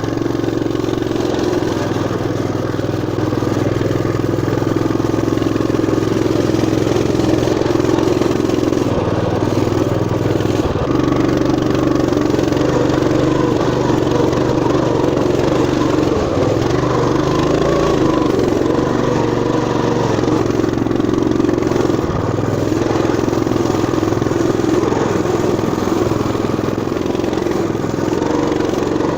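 Engine of a Motoland RT200 pocket all-terrain bike running steadily as it rides a muddy track, its note holding fairly even throughout.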